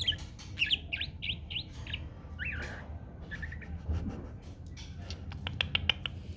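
White-rumped shama giving short, sharp chirps in quick runs, with a rapid series of sharp clicks about five seconds in.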